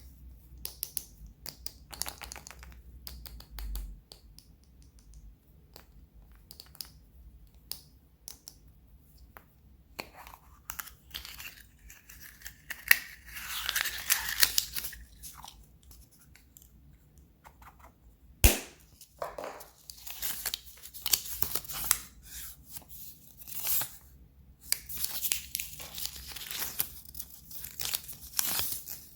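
Packaging wrappers being torn open and crinkled by hand, with many small clicks and taps. Stretches of tearing and rustling come in between, and there is one sharp crack about two-thirds of the way through.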